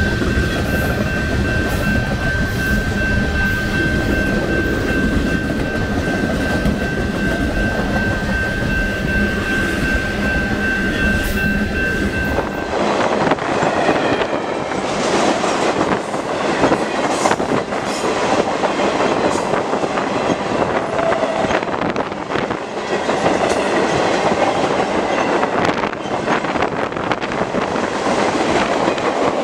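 Freight train cars rolling past close by: steel wheels rumbling and clicking on the rails, with a steady high whine over roughly the first half. After a change about halfway through, the low rumble drops away and the sound becomes a thinner, rattling clatter of many sharp clicks and clanks.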